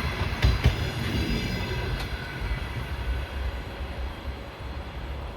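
Passenger train rolling past: wheels clack sharply over rail joints a few times in the first two seconds, then the rumble of the cars fades as they move away.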